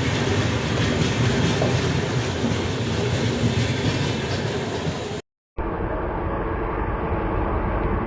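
A train running past on the track: coaches and wheels rumbling with a clickety-clack rhythm. The sound cuts off abruptly about five seconds in and is followed by a steadier, duller rumble.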